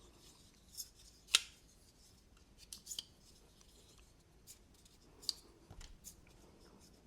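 Scattered light metallic clicks and small scrapes from a folding knife and a small screwdriver being handled while its pivot and body screws are tightened, the loudest click about a second in.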